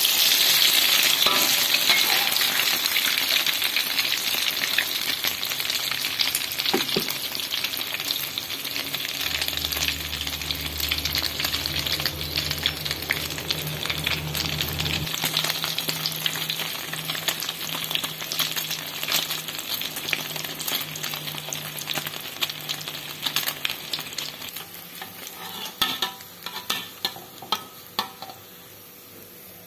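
Beaten egg deep-frying in hot oil in a steel wok: a dense crackling sizzle that slowly eases as the omelette browns. A metal spatula scrapes the wok, with a few louder clicks and scrapes near the end as the omelette is lifted.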